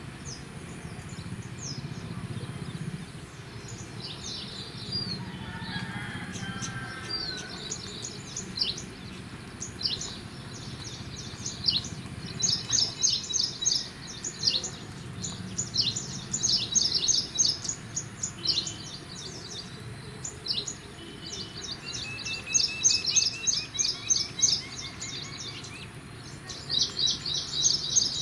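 Birds chirping: quick runs of high, short chirps that come and go, busier in the second half, with a few lower whistled calls, over a low steady background rumble.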